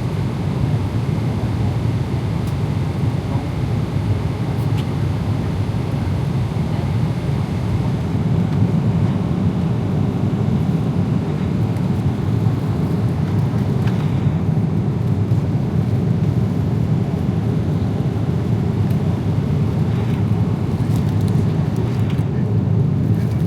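Steady low rumble of a Boeing 777-300ER airliner cabin in cruise: engine and airflow noise, even throughout, with a few faint clicks in the second half.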